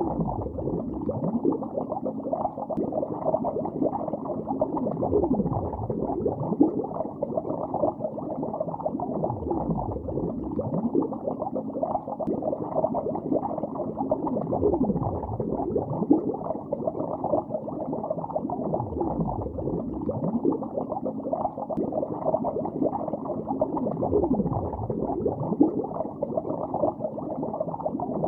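Continuous underwater bubbling recorded with the microphone below the surface: a dense, muffled stream of bubbles with many short sweeping bubble tones, all low and dull with no high end.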